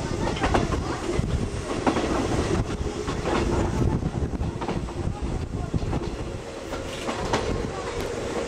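Vintage passenger coach rolling along the track: a steady rumble with irregular clickety-clack of the wheels over rail joints, heard through an open window.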